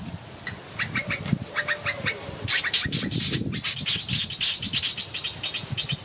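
Small birds calling: a quick series of short high chirps about half a second in, then a denser, faster chattering from about two and a half seconds to near the end, over low gusts of wind on the microphone.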